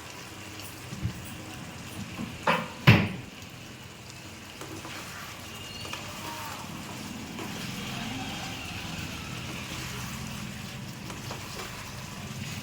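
A metal spatula knocking against a kadai several times while stirring the chicken, the loudest clank about three seconds in, followed by a steady low background noise.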